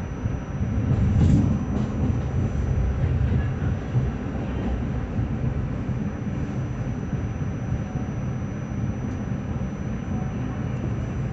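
New York City subway Q train running between stations: a steady low rumble of wheels on the rails, swelling louder about a second in.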